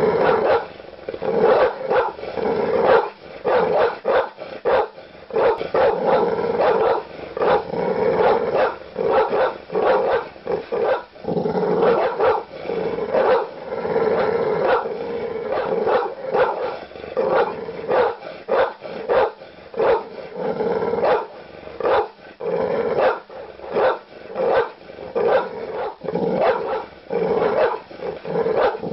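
Large dog barking aggressively: deep, loud barks come in quick, almost unbroken succession.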